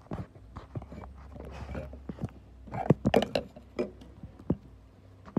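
Raw cucumber slices being crunched and chewed: scattered crisp crunches with a dense run of them about three seconds in.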